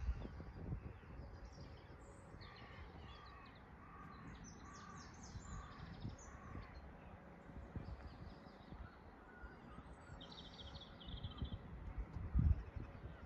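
Birds calling: a run of about six evenly spaced harsh calls with higher chirps over them, then a short buzzy trill near the end. Low bumps on the microphone run under the calls, with one louder thump shortly before the end.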